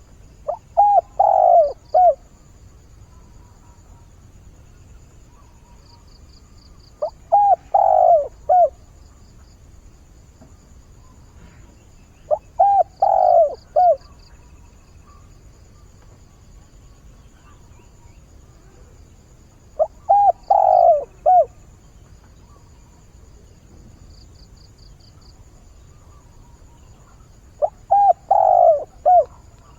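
Decoy spotted dove cooing its territorial, mate-calling song. Five phrases come about seven seconds apart, each a short lead note followed by fuller coos and a final clipped note.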